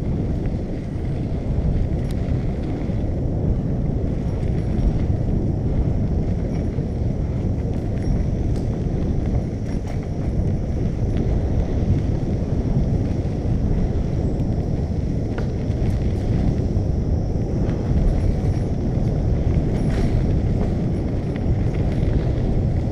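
Steady low rumble of wind buffeting the microphone on a moving bicycle, with a few faint ticks.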